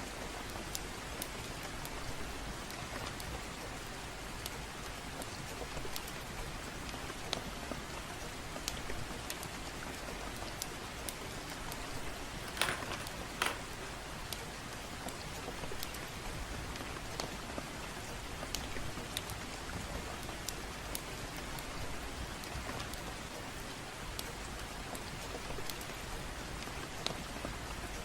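Gentle rain falling steadily, with scattered sharp crackles from a fireplace throughout; two louder pops come about halfway through.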